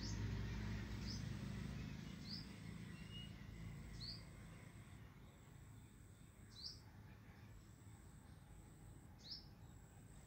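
A bird giving short, sharp high chirps, about six of them one to two seconds apart, over faint background noise. A low rumble fades away over the first two seconds.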